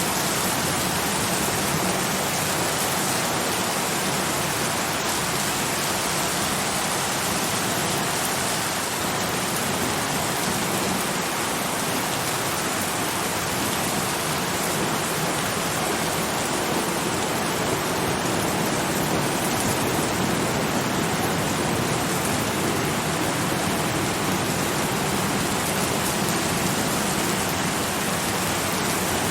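Steady rain falling on a surface, an even hiss without distinct drops.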